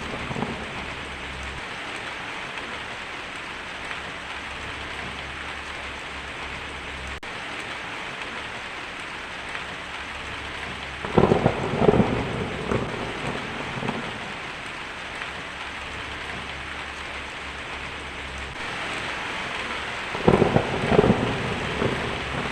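Heavy rain drumming steadily on a tin roof, with two rolls of thunder, one about eleven seconds in and another near the end.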